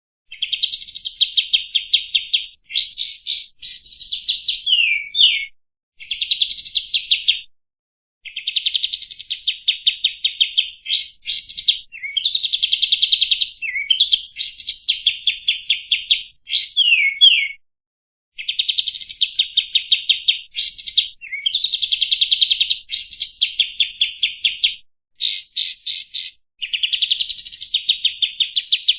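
A kapas tembak songbird singing a long run of loud, fast chattering phrases. Each lasts one to three seconds and is built of rapid repeated notes, with high upward-sweeping notes and short gaps between phrases.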